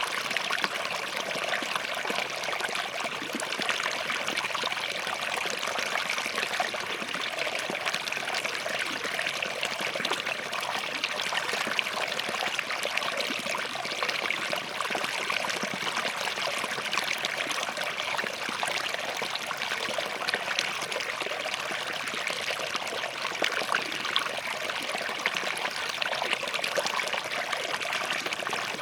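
Small forest stream flowing and trickling over rocks, a steady babble of running water with fine splashing detail.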